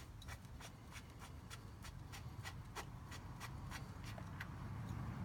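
Socket ratchet clicking steadily, about four clicks a second, as the fill plug on a differential is loosened before draining the oil.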